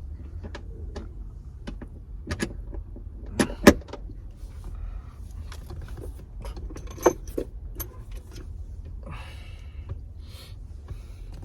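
Scattered clicks, knocks and light clatter of hands working seatbelt hardware and interior parts in a car, with a sharp double click about three and a half seconds in and another about seven seconds in, and a brief rustle near the end.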